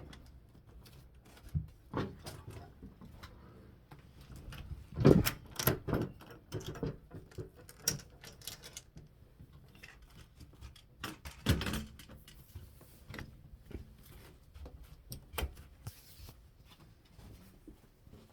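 Scattered clicks and knocks, with louder thumps about five seconds in and again about eleven and a half seconds in.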